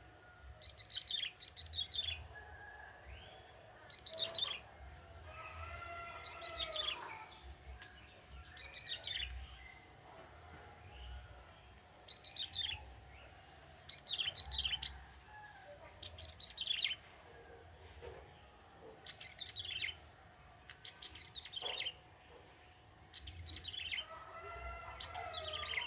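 Young male bar-winged prinia (ciblek) singing. Short bursts of quick, falling high-pitched notes repeat every second or two, with a few softer, lower notes in between.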